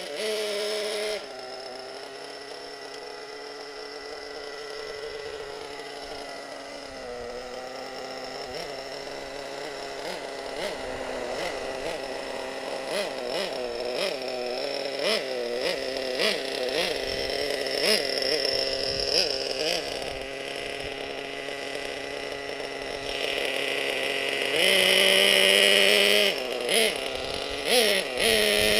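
Single nitro engine of a Hot Bodies Lightning GTX2 twin-engine RC monster truck running on a very rich setting, the second engine out of action. It idles steadily at first, then wavers in pitch as the throttle is blipped, with one louder rev near the end followed by a few short blips.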